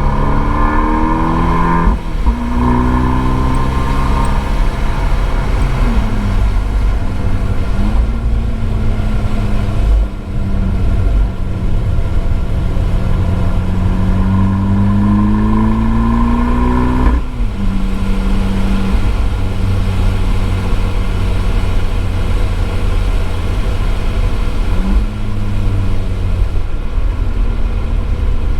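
Abarth 595 Esseesse's turbocharged four-cylinder through an Akrapovič exhaust, under hard acceleration on track. The pitch climbs and drops sharply at a gear change about two seconds in, then makes a long climb that cuts off suddenly about two-thirds of the way through as the throttle is lifted. After that it runs lower and steadier, with a couple of short blips.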